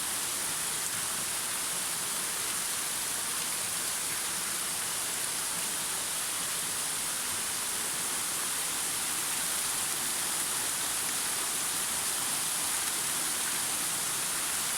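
Steady rushing and splashing of a waterfall, water falling over a rock face: an even, unbroken hiss.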